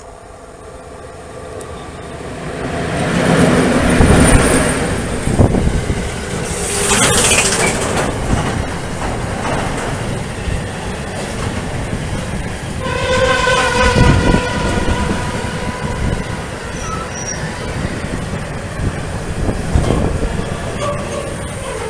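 PKP Cargo ET22 electric locomotive hauling a freight train of car-carrier wagons approaches and passes, loud from about four seconds in, with wheels knocking over rail joints. A brief stacked tone rings out about two-thirds of the way through.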